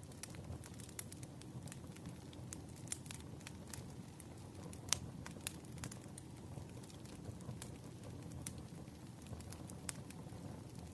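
Wood fire crackling: irregular sharp pops and snaps over a steady low rumble of burning logs, with one louder pop about five seconds in.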